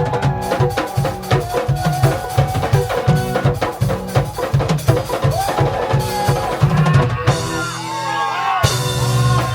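Live reggae band playing, the drum kit to the fore with rimshots, snare and bass drum on a steady beat. About seven seconds in the beat and bass break off, and the bar ends in a bright crash.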